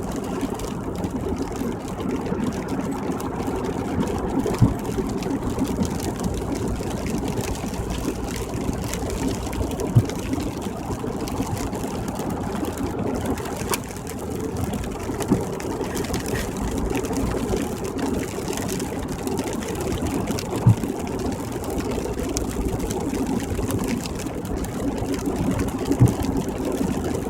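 Steady road and engine noise heard inside a car's cabin at highway speed on wet pavement, with a short knock repeating about every five seconds.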